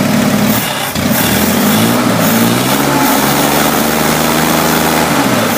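1965 Corvair's 95 hp air-cooled flat-six running with no exhaust system fitted, revved up about a second in, held at a higher speed, then settling back to idle near the end. It is running untuned, on old spark plugs and unrebuilt carburetors.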